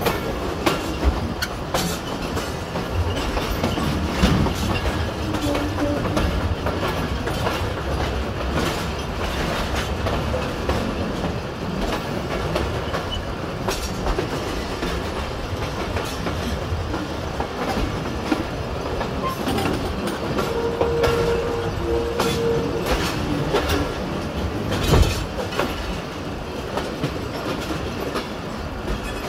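Pakistan Railways passenger coaches running through a junction yard: a steady wheel rumble and clickety-clack over rail joints and points, with frequent sharp knocks, the loudest about 25 seconds in. Short high tones sound twice, about 5 seconds in and again around 20 seconds in.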